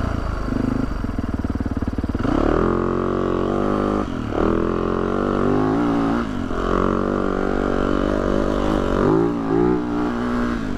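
Yamaha YZ450F dirt bike's single-cylinder four-stroke engine chugging at low revs for about two seconds, then revving up as it pulls away. The pitch dips briefly twice as the throttle is eased off, then rises and falls again near the end.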